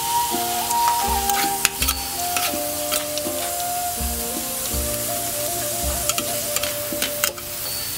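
Dark sauce bubbling and sizzling around chicken feet, carrots and green peppers in a wok, with scattered sharp pops through it. Background music with a simple melody plays over it.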